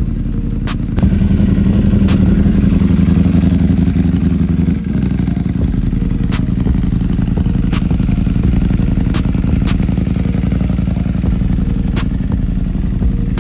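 Sport motorcycle engines running loudly, getting louder about a second in, with a brief drop near five seconds.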